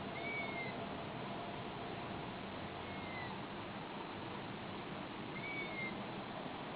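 A bird calling three times, each a short whistled note that slides down in pitch, about two and a half seconds apart, over a steady hiss.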